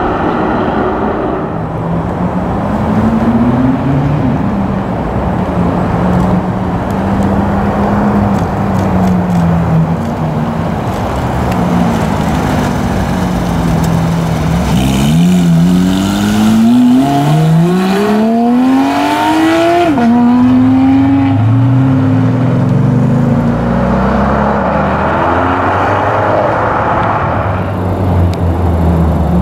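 Supercar engines running with a steady exhaust note, then one revs up hard in a rising sweep about halfway through. The pitch drops suddenly, like an upshift, before settling back to a steady note.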